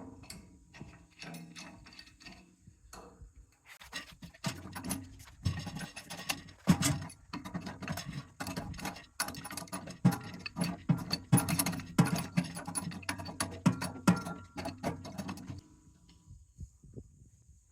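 Hand tools working on a scrap water pump unit: a quick run of metallic clicks, clanks and ratcheting as parts are unbolted to free a brass piece. It stops about two seconds before the end.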